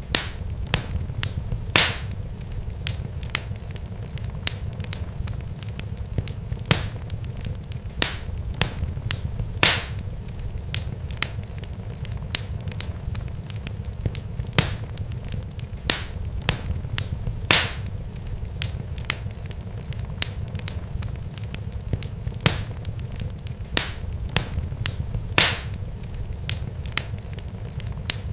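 Irregular sharp pops and crackles, a few much louder than the rest, over a steady low rumble.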